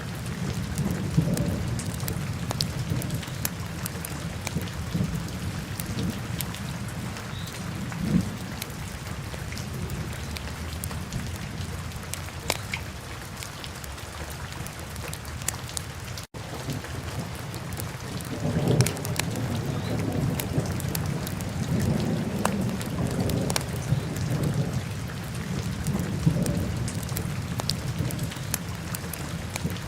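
Wood fire burning in a fireplace: scattered sharp crackles and occasional louder pops over a steady low rumble of the flames. The sound cuts out for an instant a little past halfway.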